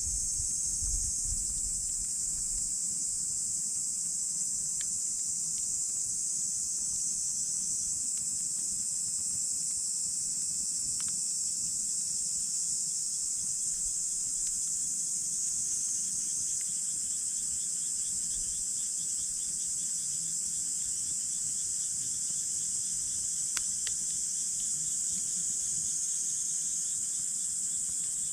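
A steady, high-pitched chorus of crickets and other insects. About halfway through, a second insect's rapid chirping joins in, and the campfire gives a few faint pops.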